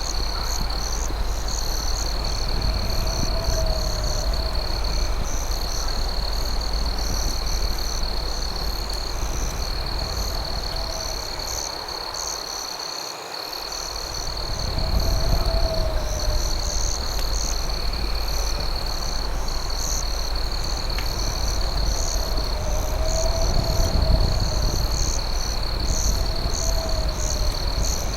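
Night insects: crickets trill steadily, with faster pulsing chirps above them. A short low call that rises and falls repeats every few seconds, most likely a frog. Under it all is a steady low rumble that dips briefly about halfway through.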